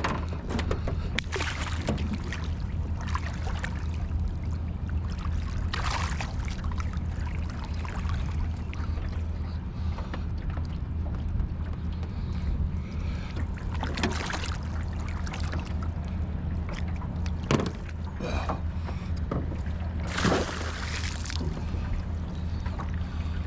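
Boat motor running with a steady low hum, with several brief splashes and sloshes of water against the boat.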